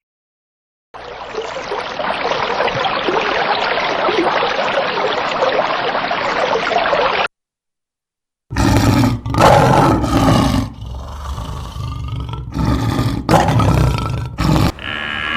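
A steady noise like rushing or splashing water for about six seconds, then, after a short silence, a large animal roaring and growling in a series of loud calls.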